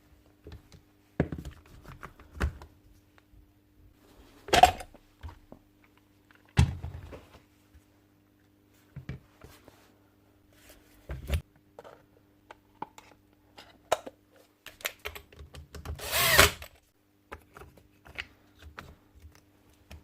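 Scattered clicks and knocks of drill parts being handled while an SDS drill is taken apart by hand, with two louder clatters about four and a half and sixteen seconds in. A faint steady hum runs underneath.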